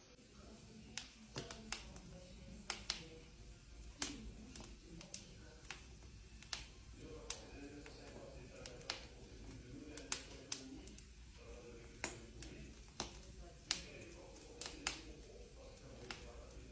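Wood fire crackling in a fireplace: irregular sharp pops and snaps, sometimes two or three close together, over a low steady background.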